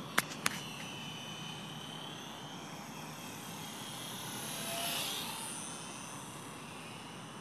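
Electric motor and propeller of a radio-controlled Super Cub model plane whining in flight. It grows louder as the plane comes closest about five seconds in, then fades. Two sharp clicks come just at the start.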